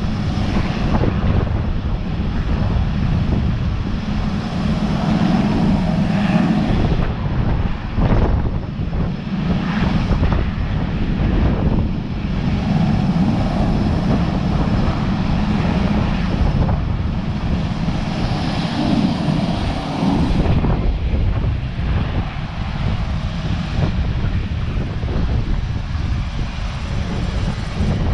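Sikorsky S-61 helicopter's twin turboshaft engines and main rotor running loud and steady as it comes in to land, a heavy low rotor rumble with turbine whine over it.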